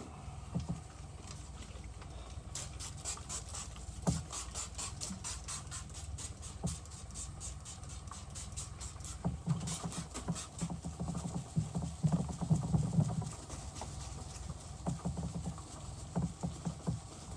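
Wet sanding a plastic headlight lens by hand with 3000-grit sandpaper: quick back-and-forth rubbing strokes, about four a second, steadiest through the middle of the stretch.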